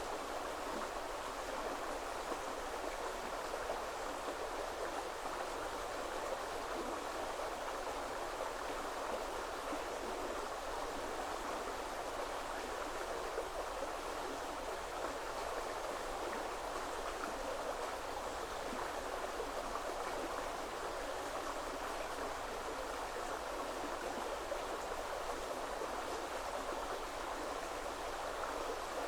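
Shallow woodland river flowing steadily over stones, an even rushing and babbling of water.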